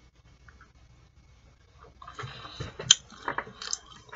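Wet chewing and lip-smacking with sharp mouth clicks, starting about halfway through, as a boiled artichoke leaf is scraped between the teeth and eaten.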